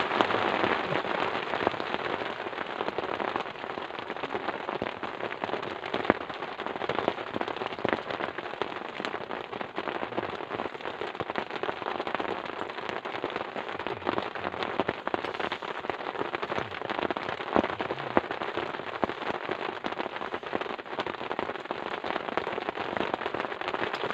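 Steady rain, dense drops striking close by, with sharper single drop hits now and then.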